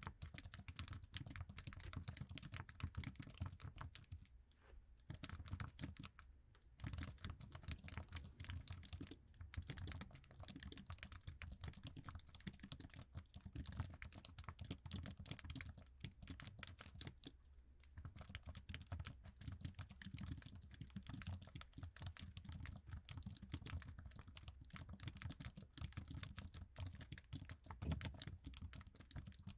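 Continuous fast typing on an Apple iMac's standard keyboard: a dense stream of key clicks, broken by short pauses about four and a half, six and a half, and seventeen seconds in.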